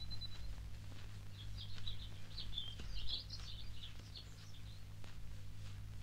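Small birds chirping in the woods, a flurry of quick high twittering notes through the middle, over a steady low hum.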